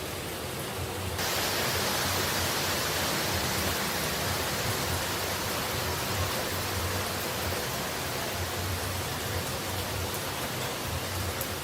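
Steady rushing noise of falling water, as in a waterfall or heavy rain sleep-sound track. It steps up louder and brighter about a second in and then holds even.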